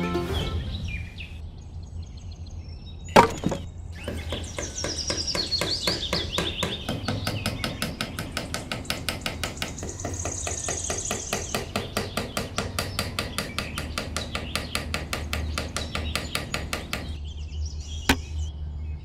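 Hammer tapping in a quick, steady run of strokes, about four a second, with a single louder knock about three seconds in and another near the end.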